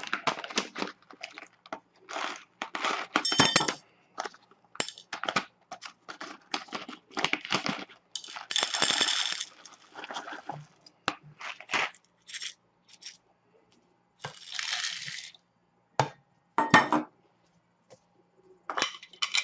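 Coffee beans and a metal blade grinder being handled: a run of clicks, knocks and clinks, with longer rattles of beans about 8 seconds in and again about 14 seconds in. The grinder's motor is not running.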